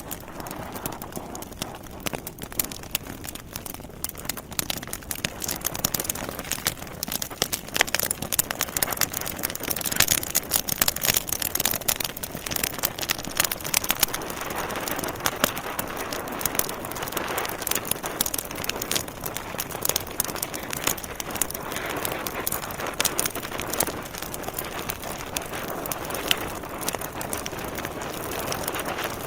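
Wood logs burning in a fireplace, crackling and popping irregularly over a steady hiss of flame.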